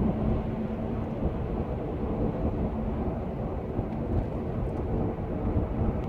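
Engine and road noise from inside a moving vehicle's cabin: a steady low rumble.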